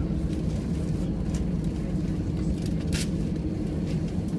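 Steady low rumble inside the cabin of an Airbus A321 on arrival: engine and airframe noise with the aircraft on or near the runway. One short sharp knock about three seconds in.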